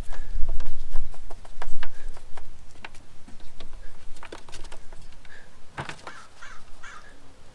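Irregular clicks and knocks of tools and parts being handled during a water heater replacement, with a low rumble in the first second or so. A few short, harsh calls come near the end.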